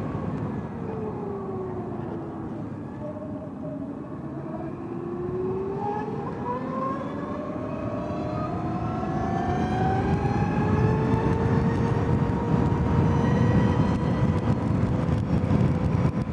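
Zero S electric motorcycle's motor whine falling in pitch as it coasts downhill under regenerative braking, then rising again as the bike speeds up and holding a steady pitch near the end. The whine sits over a steady rush of wind and road noise that grows louder with speed.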